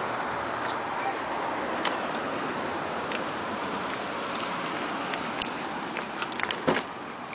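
Steady rain falling, a continuous hiss with scattered drop ticks, and a few sharper clicks near the end.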